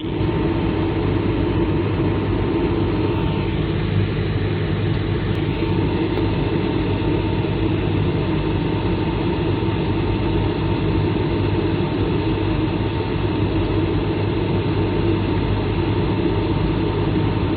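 Steady engine and airflow roar inside the cabin of an Airbus A220-300 in flight, its Pratt & Whitney PW1500G geared turbofans running at a constant setting, with a faint steady whine that fades about five seconds in.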